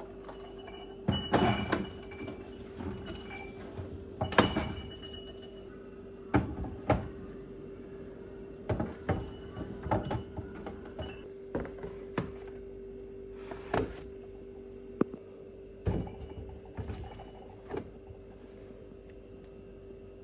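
Dishes and kitchen containers being handled and set down: a dozen or so irregular clinks and knocks over a steady hum.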